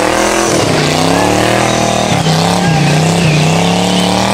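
V8 muscle car engine at high revs during a rolling burnout, with tyre noise. The revs dip briefly near the start, climb over the next second, then hold steady.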